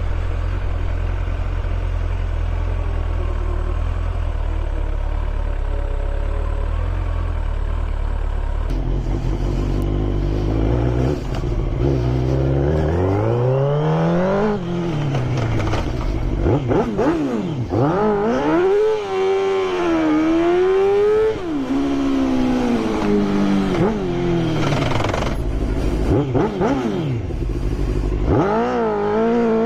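Motorcycle engine running steadily at a low, even pitch, then from about nine seconds in accelerating away, its pitch climbing and dropping back again and again as it revs up and shifts or slows.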